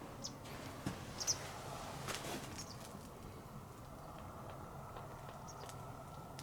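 Low, steady outdoor background noise with a few short, high chirps and scattered light clicks and taps, the sharpest about a second in.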